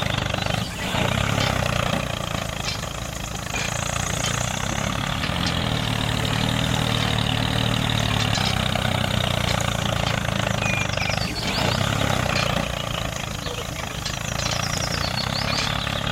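An engine running steadily at idle, dipping briefly about half a second in and again around eleven seconds.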